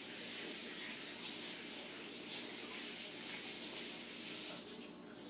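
A steady hiss, with faint irregular crackles of a cat crunching dry kibble.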